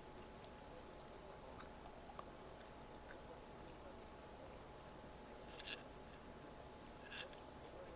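A person chewing food close to the microphone, with scattered small crunches and mouth clicks; two louder crunches come a little past halfway and near the end.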